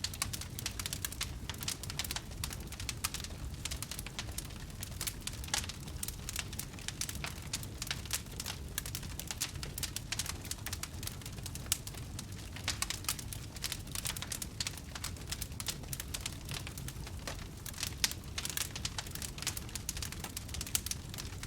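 Wood fire crackling, with frequent irregular small pops and snaps over a low steady rumble.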